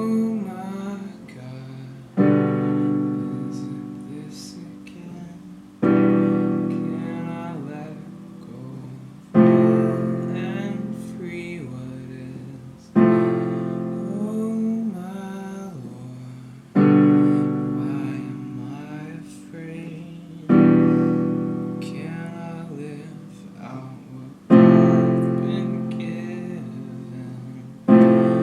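Piano playing slow chords, one struck about every three and a half to four seconds and left to ring and fade before the next.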